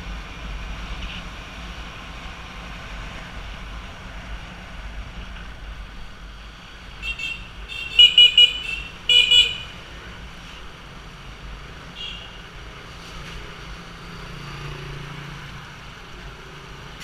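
Road traffic noise with a vehicle horn honking several short toots about halfway through, the loudest sounds.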